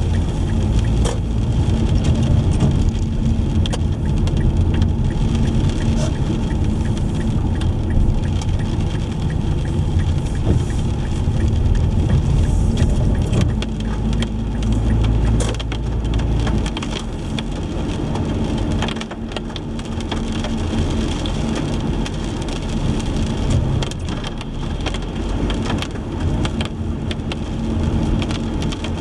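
Rain striking a car's windshield and body, with scattered sharp drop ticks, over steady low road and engine rumble while driving. The low rumble eases about two-thirds of the way through.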